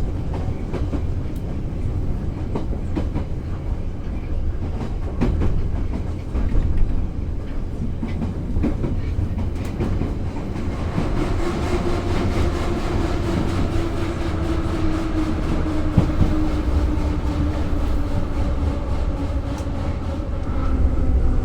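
Moscow metro 81-717/714 'Nomernoy' train running, its wheels clattering over the rail joints with a steady low rumble. About halfway in, a whine from the traction motors sets in and slowly falls in pitch, as the train slows.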